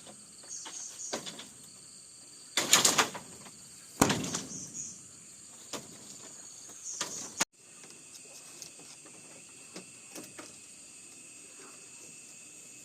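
Steady high chirring of insects, broken in the first half by a short loud rattling clatter and a sharp knock, with a few lighter knocks after. The background changes abruptly about halfway, leaving the insect chirring with sparse faint ticks.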